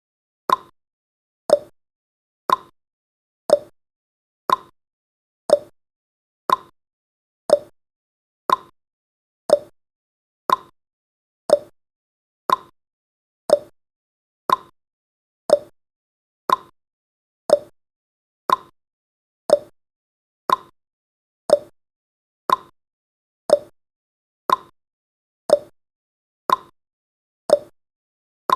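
Clock-tick sound effect of a countdown timer: one short, sharp tick every second, evenly paced, marking off the seconds.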